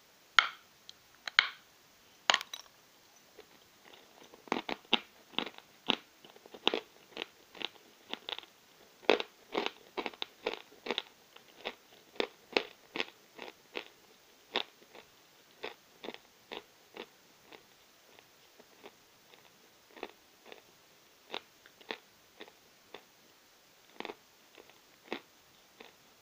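Chunks of Novy Oskol natural chalk being bitten and chewed: a few loud snapping bites near the start, then a run of dry crunches about two a second that thins out toward the end.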